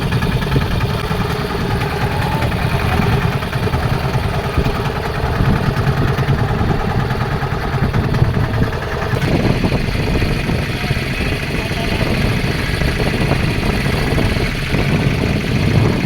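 Fishing boat's engine running steadily, with a slight change in tone about nine seconds in.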